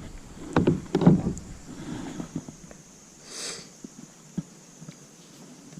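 A few dull knocks and handling sounds in a fishing kayak in the first second and a half, then a short swish about three and a half seconds in.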